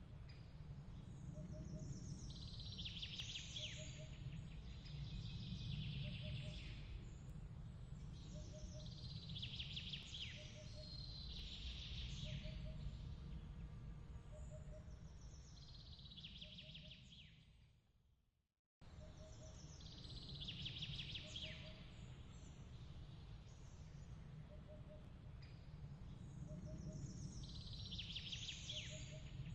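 Looped nature-sound ambience: birds chirping in a recurring phrase every few seconds over a steady low rumble, with a faint pulsing tone about once a second. It fades out a little past halfway and restarts abruptly as the loop begins again.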